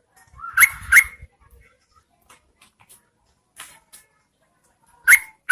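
Yellow-vented bulbul giving short, sharp rising calls: two close together about half a second in, and two more near the end.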